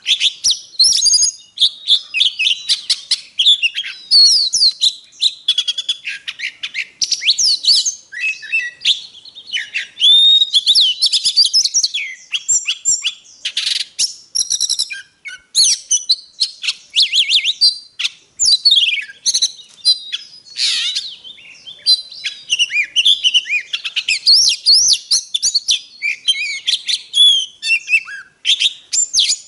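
Oriental magpie-robin singing without a break: a fast, varied stream of clear whistled phrases, trills and pitch glides. It is a recorded lure song, played to spur magpie-robins into singing.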